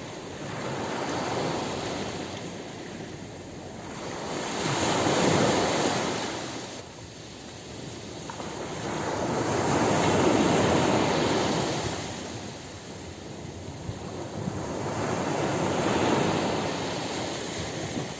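Ocean surf on a beach: a wash of noise that swells as each wave breaks and fades as it draws back, a new swell every five seconds or so.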